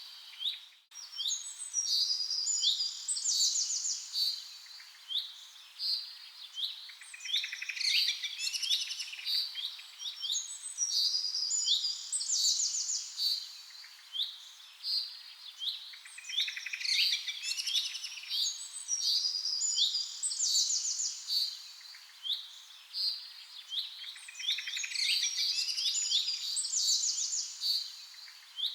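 Several birds chirping and calling together in a dense chorus of short, quick chirps and trills, with the same clusters of calls coming back every several seconds.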